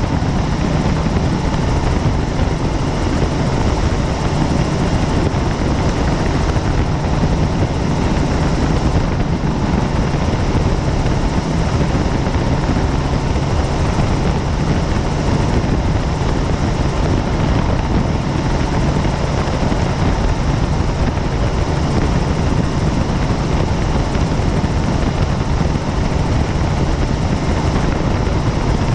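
Helicopter in flight, its rotor and engine noise heard on board, loud and steady.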